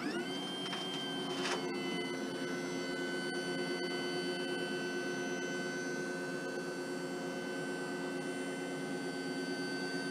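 Van wheelchair lift in operation: its electric motor spins up and runs with a steady whine, with a click about one and a half seconds in.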